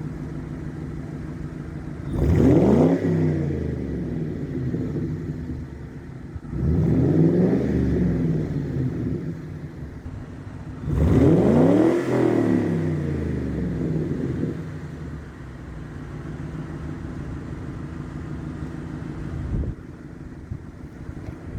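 1999 Ford Mustang GT's 4.6-litre V8 through a Borla ATAK cat-back exhaust, warmed up, idling and blipped three times, each rev rising and falling back to idle, the last one held longest.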